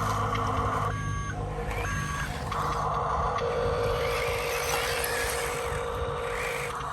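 RC truck's reversing beeper sounding twice, about a second apart, over a steady whine from the model's motors.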